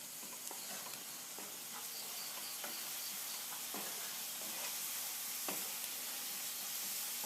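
Onion, chilli and honey masala sizzling steadily in oil in a pan, with a spoon stirring and now and then clicking against the pan.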